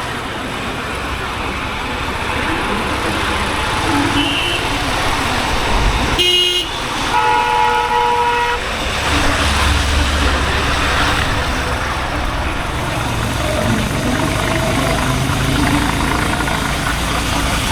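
Honda H'Ness CB350's air-cooled single-cylinder engine running through city traffic, with road noise. A vehicle horn honks once for about a second and a half around the middle, and the engine grows louder just after.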